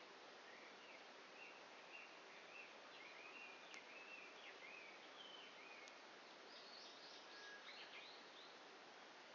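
Very quiet outdoor hiss with a bird singing faintly in the distance, a string of short chirping notes that rise higher near the end. Two faint ticks from the campfire's dying embers.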